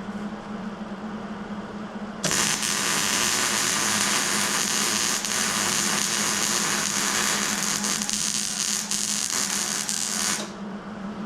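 Plasma cutter cutting steel: a loud, even hiss starts suddenly about two seconds in, holds for about eight seconds and cuts off, over a steady low hum.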